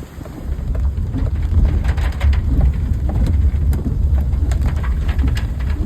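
Heavy wind buffeting the microphone: a loud, steady low rumble with scattered crackles.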